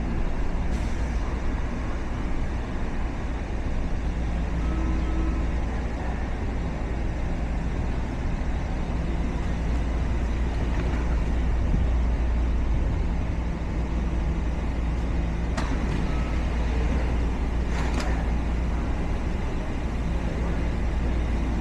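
Washington Metro 6000-series railcar running with a steady low rumble and hum, with a few brief faint tones and two sharp clicks about two seconds apart near the end.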